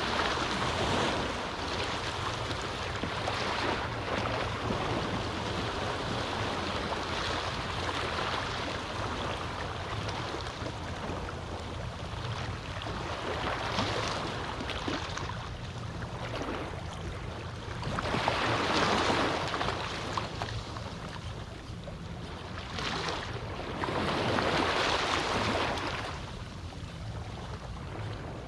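Small ocean waves washing onto a beach, the surf rising and falling every few seconds, with two stronger surges in the second half, over a steady low rumble.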